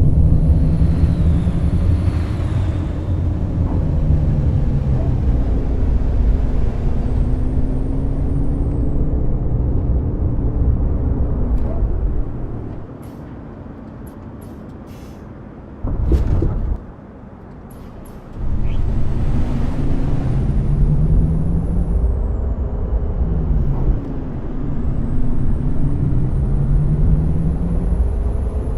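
Scania K420 coach's diesel engine pulling, its pitch rising and falling through the gears with a faint high whine climbing with the revs. About halfway through the engine drops away for several seconds, broken by a short loud hiss of air, then picks up and pulls again.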